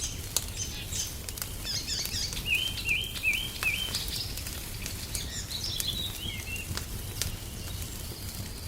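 Wood fire crackling in a fireplace, with sharp pops scattered throughout over a low steady rumble. A songbird sings from about two seconds in: four repeated hooked notes, then a falling run of notes near six seconds.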